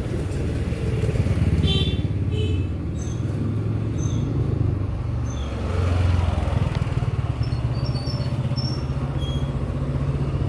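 A motor running steadily with a low rumble, with a few short high chirps over it.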